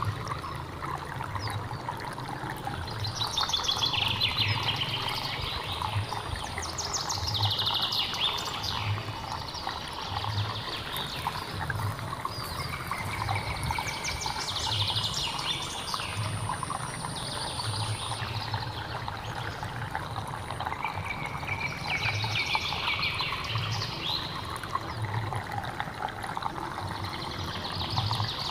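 Running water of a hill stream, a steady rushing, with a bird calling over it in short bursts of chirps every three to five seconds.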